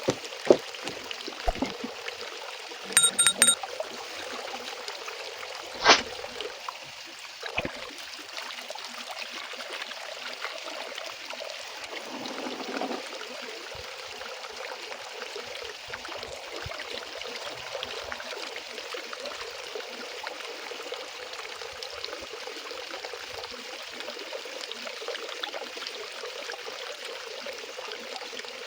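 Water running steadily. Over it are a few sharp knocks, a quick run of ringing metallic clinks about three seconds in, and a louder knock about six seconds in.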